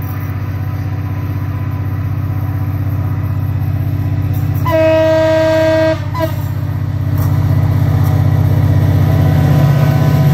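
Diesel train engine running with a low, steady drone that grows louder towards the end. About halfway through, the train sounds its horn in one blast of just over a second, followed by a brief short toot.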